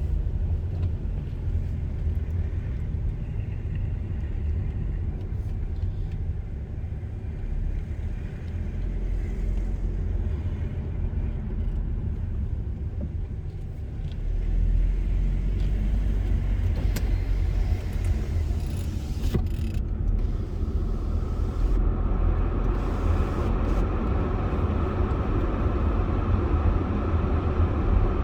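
A car driving, a steady low road rumble with tyre and wind noise, growing somewhat louder about halfway through.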